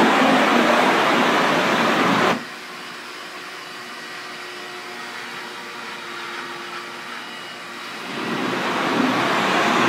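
Pressure washer spray hissing, which cuts off sharply a couple of seconds in. A quieter steady machine hum with a few faint tones carries on for several seconds. The spray then builds back up near the end.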